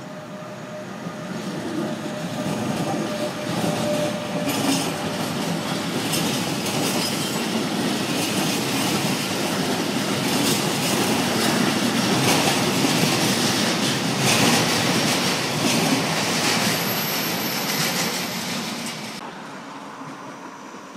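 Freight train of containers and trailers, hauled by an electric locomotive, rolling past at close range, its wheels clattering over rail joints and points, with a brief high wheel squeal near the end. The sound cuts off abruptly near the end, leaving a quieter rumble.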